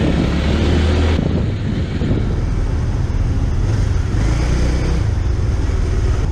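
Motorcycle engine running steadily at low speed, a continuous deep rumble.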